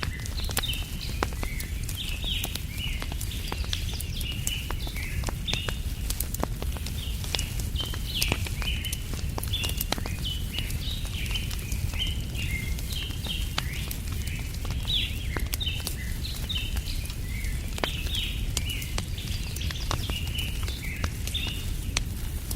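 Wood fire crackling with frequent sharp pops, over a steady low rumble, while many small birds chirp busily.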